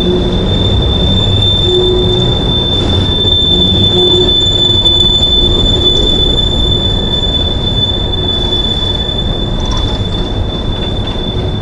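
Coal train's hopper cars rolling past close by: a steady rumble of wheels on the rails under a continuous high-pitched wheel squeal.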